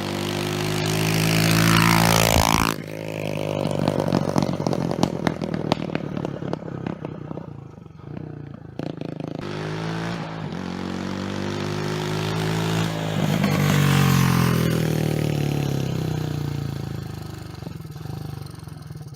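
Pit bike's 125cc Lifan single-cylinder four-stroke engine being ridden hard and really loud. It revs up through the gears and drops sharply in pitch as it passes about two and a half seconds in, climbs again, falls off a second time, then cuts out at the very end.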